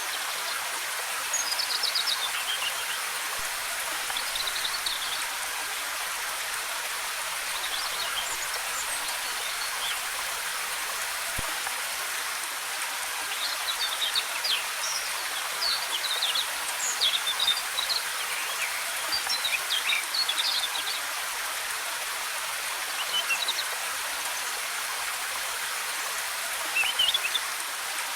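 Waterfall cascading in a steady rushing hiss, with forest birds chirping in short high bursts scattered over it, busiest through the middle stretch.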